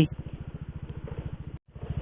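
Motorcycle engine idling with a steady, rapid low pulse, broken off briefly about a second and a half in.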